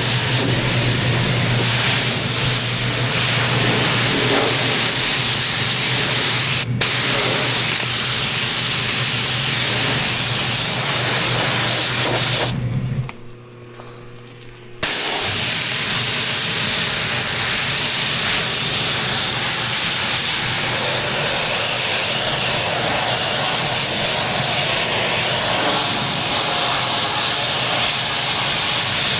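Pressure washer spraying water onto a truck body in a steady loud hiss with a low steady hum underneath. There is a single click about seven seconds in. The sound drops out for about two seconds midway, then the spray resumes with less hum.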